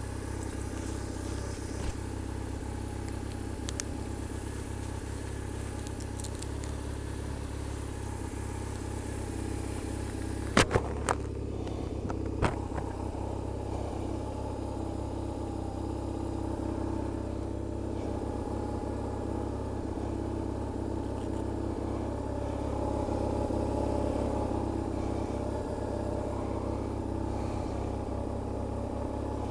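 BMW R1150RT's boxer twin engine running steadily at idle, with a few sharp clicks about a third of the way in.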